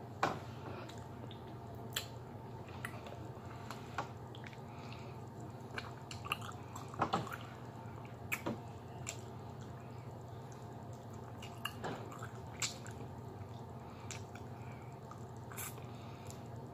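A person chewing fatty oxtail meat close to the microphone, with short wet mouth smacks and finger-licking sounds scattered through, over a low steady hum.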